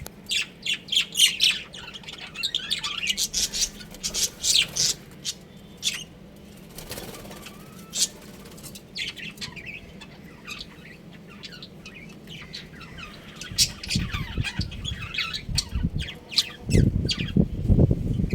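Budgerigars chirping and chattering in quick high calls, busiest in the first six seconds and sparser after. In the last few seconds, low rumbling thumps rise under the calls and are the loudest sound.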